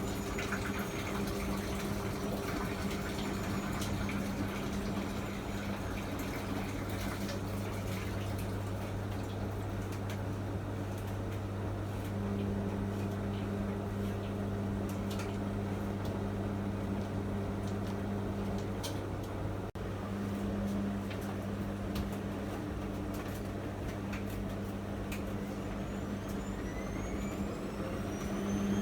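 Miele MedicWash W2585 front-loading washing machine in a rinse stage: water flowing and sloshing in the drum over a steady low electric hum. Near the end a rising whine sets in as the drum motor speeds up.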